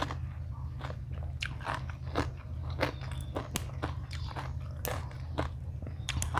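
A person biting and chewing crunchy food close to the microphone: irregular crisp crunches, several a second, over a steady low hum.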